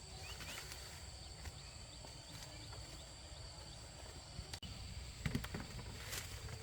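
Faint outdoor ambience with a few short high chirps early on and a couple of sharp knocks, like footsteps, near the end.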